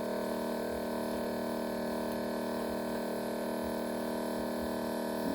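Steady electrical hum and buzz, several tones held level without change.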